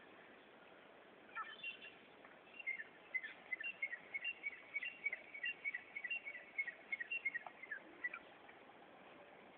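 A small bird chirping: starting about a second and a half in, a quick run of high, repeated chirps, several a second, lasting about seven seconds.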